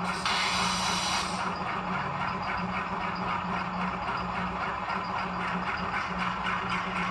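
Model-locomotive sound decoder playing a 16-cylinder Alco 251C diesel engine running with its shaft-driven air compressor chugging along, heard through a small model speaker. A short burst of air hiss starts about a third of a second in and lasts about a second.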